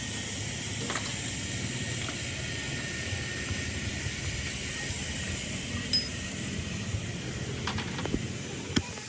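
Hand tools working on metal engine parts: a few sharp metallic clicks and clinks over a steady hiss.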